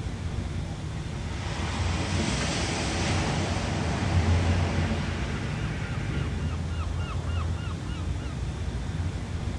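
Ocean waves washing ashore over a steady low rumble, with one wave building and breaking about two seconds in. Partway through, a bird calls in a quick run of about a dozen short notes.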